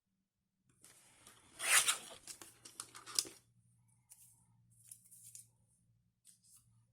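Paper being handled and cut on a craft table: a run of rustling and scraping, loudest about two seconds in with a sharp one near three seconds, then softer rustles.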